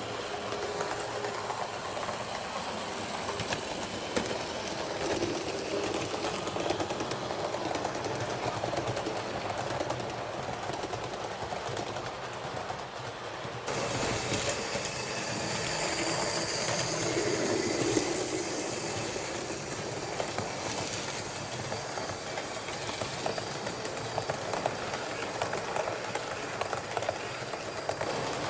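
H0-scale model train running along the track, a steady rolling noise with light clicking from the wheels over the rail joints. The sound changes abruptly about halfway through.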